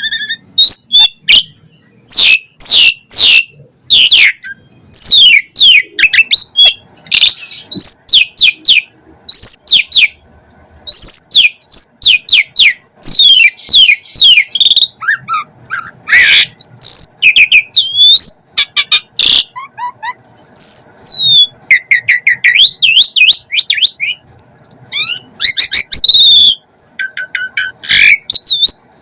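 An Asian pied starling (jalak suren) singing a long, loud, unbroken song. It is a rapid run of whistles, rising and falling sweeps and sharp clicks, packed with phrases borrowed from other birds.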